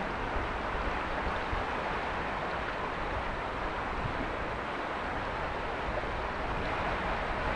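Mountain river flowing: a steady, even rush of water with a low rumble underneath.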